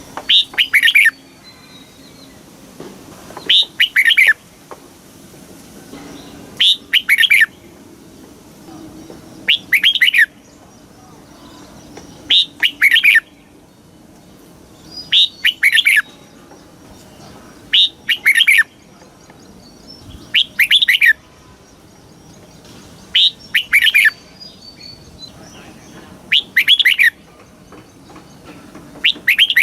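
Red-whiskered bulbul singing: short, loud, whistled phrases repeated about every three seconds.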